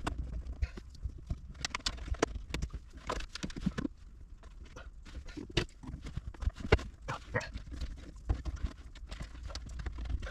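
Irregular clicks, taps and knocks of hands working with plastic interior trim and wiring in a car.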